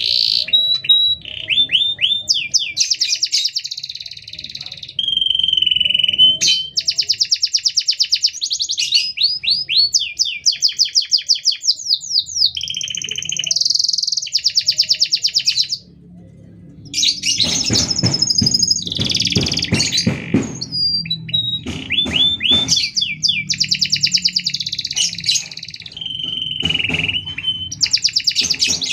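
Domestic canary singing a long song of fast repeated notes, trills and rolls, phrase after phrase with only short gaps, including a brief pause about halfway through.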